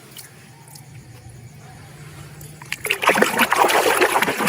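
Water splashing and trickling as a muddy toy animal is washed, starting about three seconds in.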